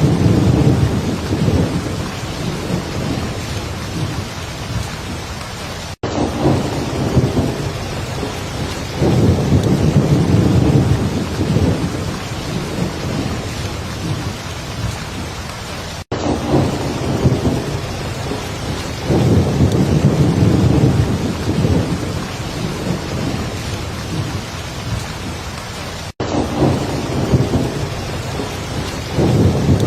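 Heavy rain falling steadily, with low rumbles of thunder swelling and fading about every ten seconds. The sound drops out for an instant three times, about ten seconds apart, where the same short recording loops.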